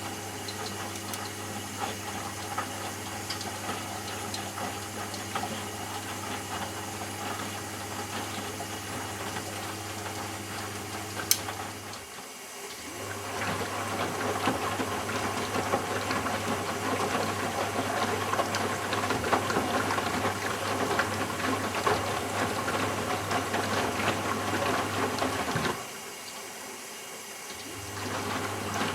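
Eudora Sparmeister 702 washing machine in its rinse stage, the drum motor humming as the drum turns and the water and laundry slosh. The drum stops briefly about 12 seconds in and again near the end, the pauses between the drum's turns. The sloshing is louder on the second turn.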